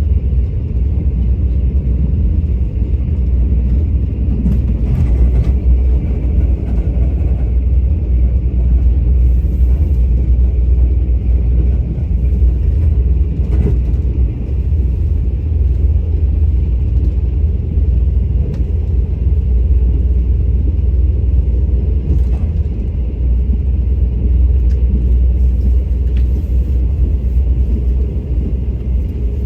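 A train running, heard as a loud, steady low rumble with a few faint clicks.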